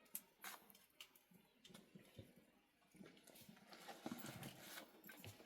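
Near silence with a few faint, scattered clicks and knocks, a little busier in the second half.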